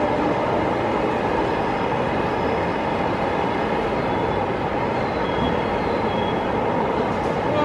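Train pulling slowly along the track toward a station platform, its running and wheel noise a steady rumble.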